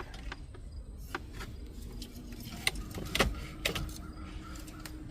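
Scattered light clicks and knocks of car interior parts and wiring being handled and fitted into place, with a faint steady hum coming in about a second in.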